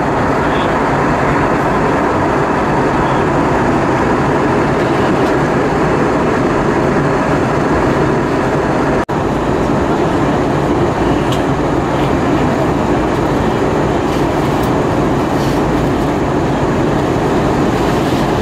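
Steady cabin noise inside an Airbus A320-232 in flight: a constant rush of airflow and engine hum from its IAE V2500 turbofans. It cuts out for an instant about nine seconds in.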